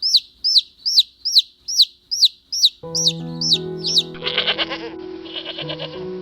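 A chick peeping in quick high peeps, about three a second. About three seconds in, music starts, and a tremulous bleat sounds over it twice.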